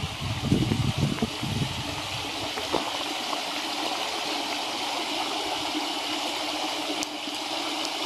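A shallow stream running steadily over stones, a constant even rush of water. For about the first three seconds a louder low rumble sits under it, then drops away and leaves only the water.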